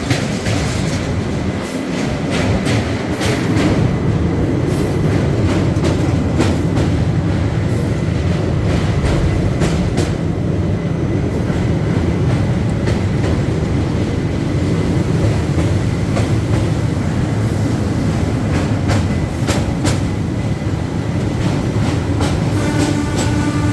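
Indian train running, heard from aboard: a steady rumble of the wheels with clicks over the rail joints, busiest in the first few seconds. A steady pitched tone sets in near the end.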